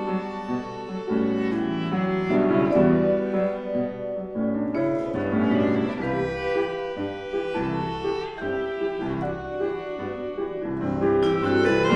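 Viola and piano playing classical chamber music together: bowed viola lines sustained over piano notes and chords.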